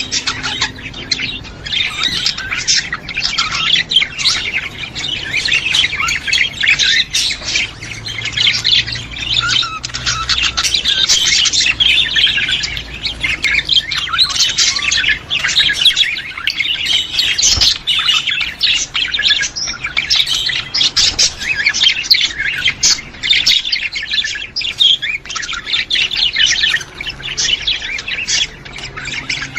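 A flock of budgerigars chattering and warbling without a break, many birds calling over one another in fast, high chirps and squawks.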